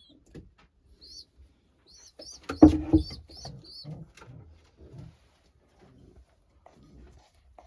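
Racing pigeons in a loft: a series of short, quick high-pitched chirps in two runs, with one louder, lower sound near the middle and faint rustling.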